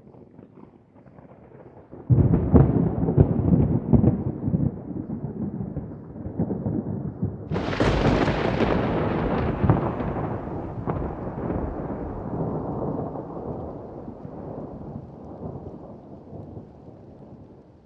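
Thunder: a faint low rumble, then a sudden loud crackling crash about two seconds in, a second sharper crack about eight seconds in, and a long rolling rumble that slowly fades.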